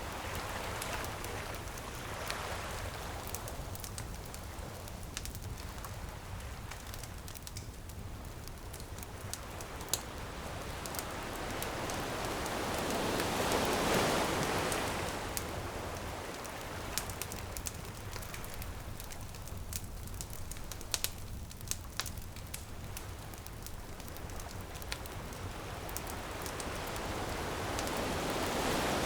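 Ocean waves washing ashore, the surf swelling twice (about halfway through and again at the end), with a wood bonfire crackling and popping throughout.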